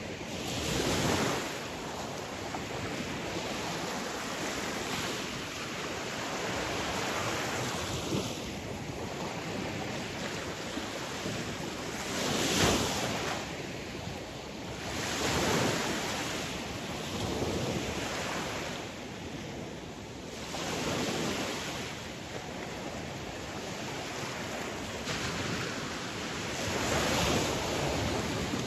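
Sea waves breaking on the shore, the surf swelling and falling back every few seconds over a steady wash, with some wind rumble on the microphone.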